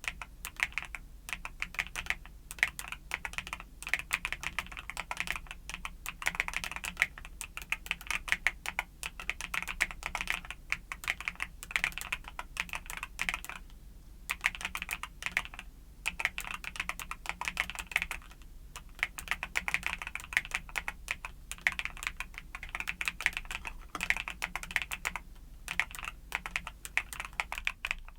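Typing on a YUNZII mechanical keyboard with Cocoa Cream switches: quick runs of key clacks broken by brief pauses between bursts.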